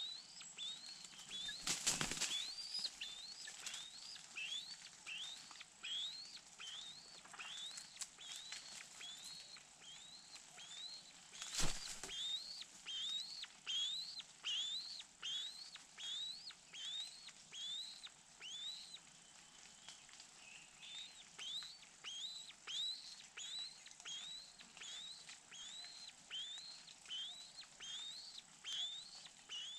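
Hawk calling over and over from the nest: short, high calls, each rising and then dropping, about one and a half a second. Two louder sudden sounds stand out, about two seconds in and near the middle.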